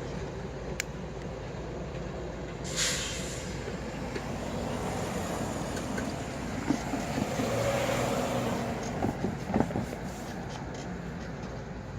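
Diesel-electric freight locomotives running during switching moves, with a short burst of hissing air about three seconds in and a few knocks and clanks around nine to ten seconds.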